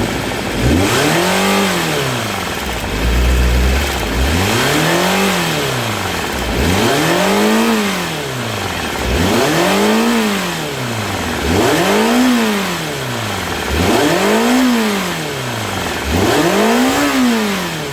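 Honda CBX400F air-cooled inline-four engine being revved up and let fall back, seven throttle blips about every two and a half seconds. It is run warm to bring out an abnormal engine noise that, per the owner, only appears once the engine is hot.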